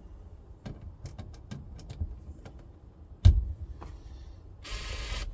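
Hand work on car parts: a string of sharp clicks and knocks, with one heavy thump a little over three seconds in, then a short burst of steady hiss-like noise near the end.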